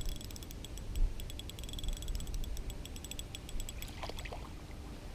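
Spinning reel ticking rapidly as its handle is cranked slowly through a micro-jig retrieve, the ticking dying away about three seconds in. Wind buffets the microphone in low thumps, strongest at the start and about a second in.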